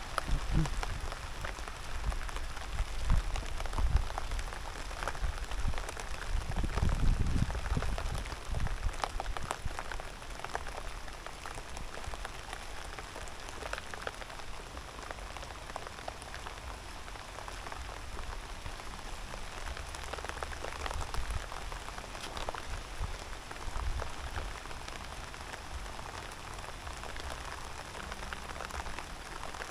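Rain falling steadily: a dense hiss of drops with scattered sharper single drop hits. A low rumble comes and goes in the first ten seconds or so.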